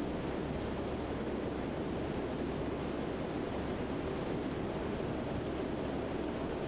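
Steady rushing drone of a C-130 in flight, its turboprop engines and airflow heard from inside the aircraft.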